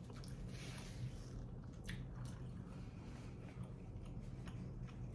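Close-up mouth sounds of someone chewing and biting tandoori chicken: wet squishing and smacking with small clicks, over a low steady hum.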